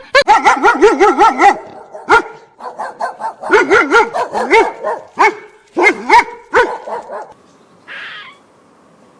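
A small dog yapping in quick runs of short, high barks, several a second, in bursts over the first seven seconds. A short noise follows near the end.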